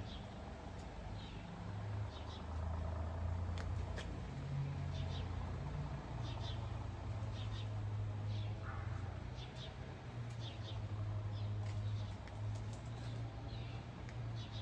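Short high chirps, repeated every second or so, typical of small birds, over a steady low hum.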